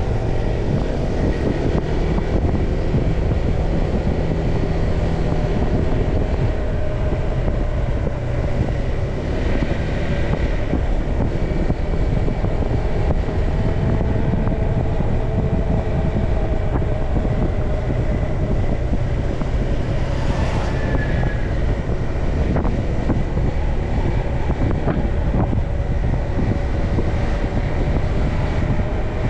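Motorcycle engine running at a steady cruise, its pitch drifting gently up and down, under heavy wind noise on the microphone and road noise.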